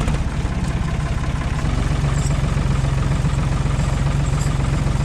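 Tractor engine idling just after being started, with a rapid, even chugging that settles a little steadier about a second and a half in.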